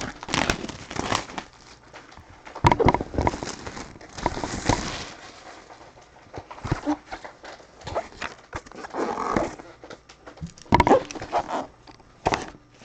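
Collectible packaging being cracked and torn open by hand: irregular clicks, crinkles and scraping bursts.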